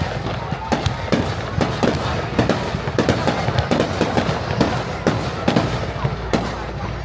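Fireworks going off in quick, irregular succession: a dense run of sharp bangs, several a second, with crackling between them.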